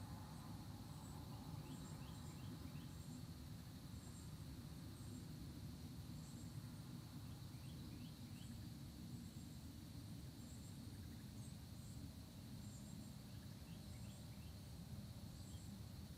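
Faint early-morning countryside ambience: insects drone steadily at a high pitch. A small bird gives short series of quick descending chirps about every six seconds, over a low steady rumble.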